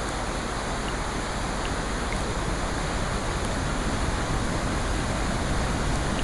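Steady rushing water, swelling slightly toward the end, with a few faint ticks.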